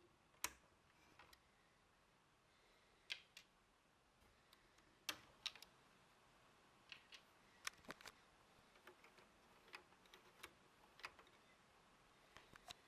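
Lego rifle mechanism being worked by hand: irregular sharp plastic clicks, a dozen or so, spread through a quiet background.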